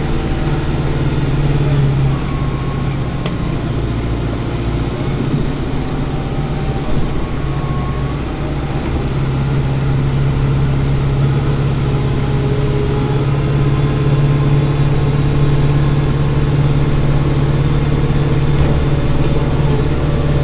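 Kubota tractor's diesel engine running steadily as it pushes snow, heard from inside the closed cab. The engine note sags slightly for a few seconds near the start, then holds steady.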